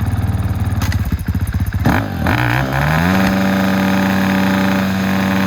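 Dirt bike engine idling, then revved up about two seconds in and held at steady high revs.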